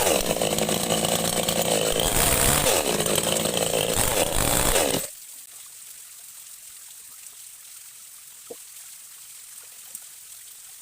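Chainsaw engine running, its speed rising and falling, then cutting off suddenly about five seconds in. After it comes a faint steady hiss with a few light clicks.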